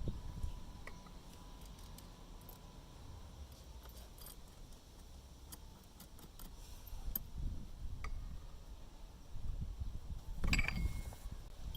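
Metal tools and parts clinking and knocking while the scooter's belt drive is worked on by hand, with scattered small clicks and a louder cluster of knocks and a short metallic ring near the end.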